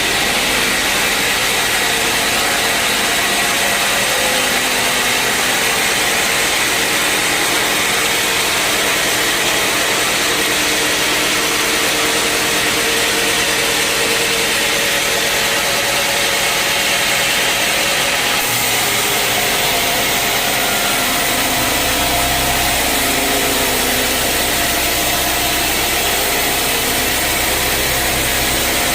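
Sawmill saw running steadily with a dense, even hiss as it cuts through a log. A deeper hum joins about three-quarters of the way through.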